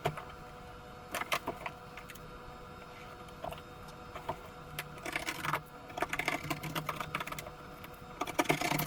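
Corrugated cardboard being cut through: a run of short scratchy crunches and clicks, sparse at first and coming thick from about five seconds in and again near the end, over a faint steady hum.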